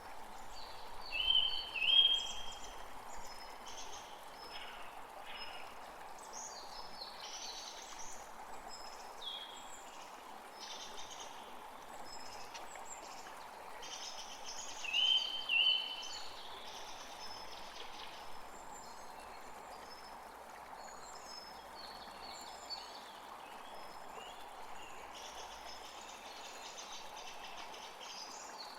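Several small birds calling and singing over a steady hiss of water. The loudest calls are short clear notes about a second or two in and again about halfway through, with fainter higher chirps scattered between.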